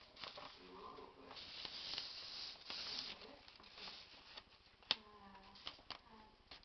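A sheet of paper being handled and folded by hand: a rustling, sliding sweep of a couple of seconds, then a few sharp taps or creasing clicks.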